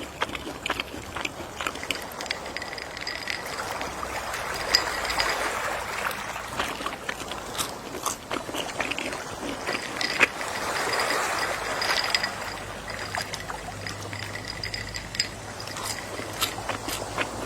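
Gentle sea waves washing in, swelling about five seconds in and again about eleven seconds in, with many small scattered clicks through the wash.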